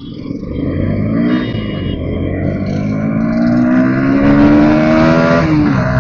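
Bajaj Pulsar NS160 single-cylinder motorcycle engine accelerating hard from low speed, its pitch climbing, dropping briefly about a second and a half in and again near the end as it shifts up a gear.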